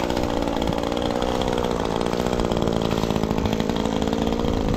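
Gas chainsaw engine running steadily at a fairly constant speed, its pitch drifting only slightly.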